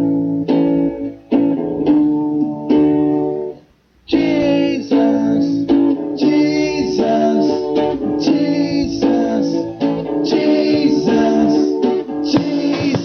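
Live guitar music: strummed guitar chords struck in short strokes, a brief stop about four seconds in, then fuller continuous playing.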